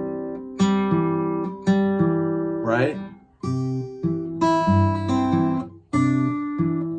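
Fingerpicked acoustic guitar: thumb bass notes under plucked and pinched melody notes, played in short phrases with two brief breaks. A single spoken "Right?" cuts in partway through.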